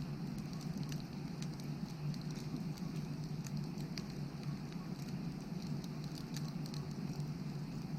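Wood fire burning, crackling with irregular sharp pops and snaps over a steady low background noise.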